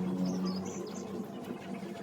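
Small birds chirping in short high calls in the first second, over a steady low hum.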